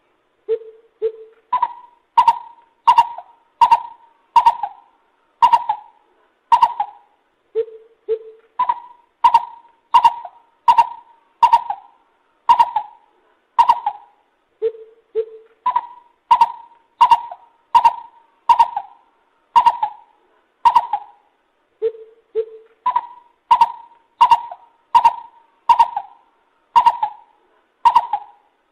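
Lesser coucal calling: a repeated phrase of two short low notes followed by a run of six to eight louder, higher hollow notes, given about four times.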